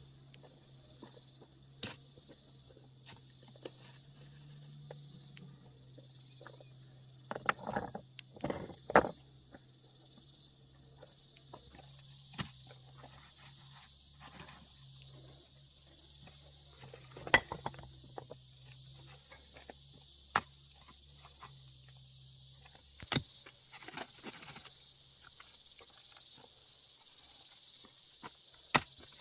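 Insects chirring steadily, over a low steady hum, with sharp knocks and clatters scattered every few seconds; a cluster of them comes about a third of the way in.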